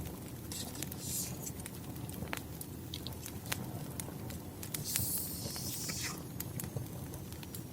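Crackling wood fire: a steady low rumble of the burning logs with sharp pops and snaps scattered irregularly throughout. A brief hissing rustle comes about five seconds in.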